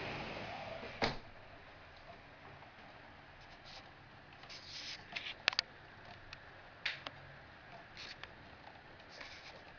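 Rain falling steadily, a soft hiss with scattered sharp taps of drops; the hiss is louder at first and drops away within the first second.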